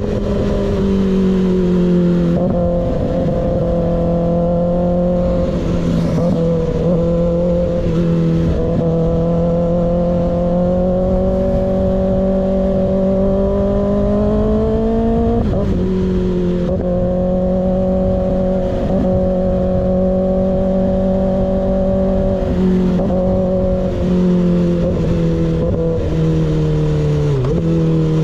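Kawasaki ZX6R inline-four with an unbaffled M4 GP19 slip-on exhaust, running under way at steady mid revs. The engine note climbs slowly, drops at gear changes about 2 and 15 seconds in, then falls away near the end as the throttle closes.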